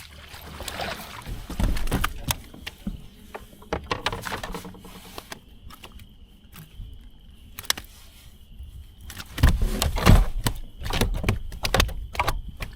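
Knocks, clicks and clunks of gear being handled aboard a plastic fishing kayak, with heavier low thumps about two seconds in and again around ten seconds.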